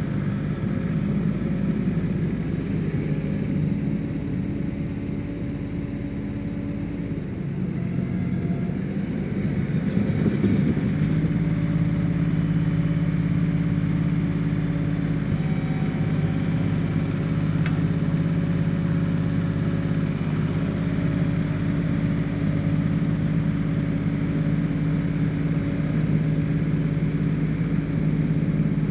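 1985 John Deere 1050 tractor's diesel engine running steadily while working. Its note sags for a few seconds, then picks up about ten seconds in and holds at higher revs.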